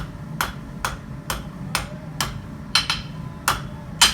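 Blacksmith's hand hammer striking red-hot mild steel bar on the anvil in a steady rhythm of about two blows a second, flattening the opposing sides of a chain link's ends to prepare them for joining.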